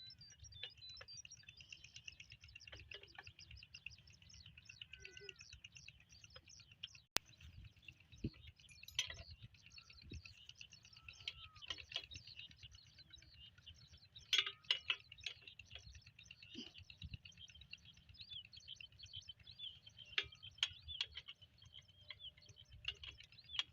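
Birds chirping and chattering continuously and faintly, with a few short gliding calls and occasional sharp clicks.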